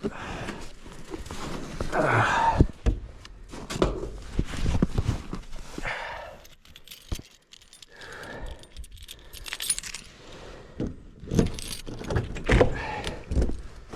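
A bunch of keys jangling among irregular clicks and knocks.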